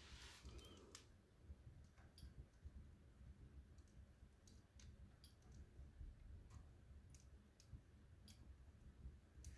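Faint crackling of a wood fire in a fireplace: sparse, irregular small pops and snaps of burning wood.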